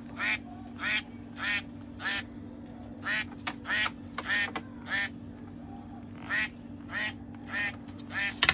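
Toy mallard duck quacking: a run of about a dozen short quacks, roughly one every half to one second, with a short break in the middle. A steady low hum underneath.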